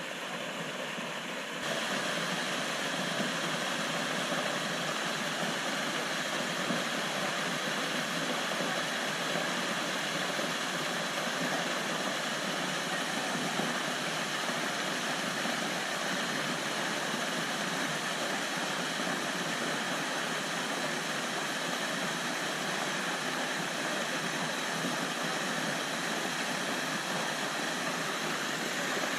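Waterfall pouring, heard up close as a loud, steady rushing of falling water that steps up a little about two seconds in.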